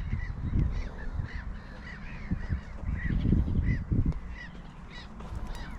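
Several birds calling with short, repeated calls, a few a second, over low rumbling bursts.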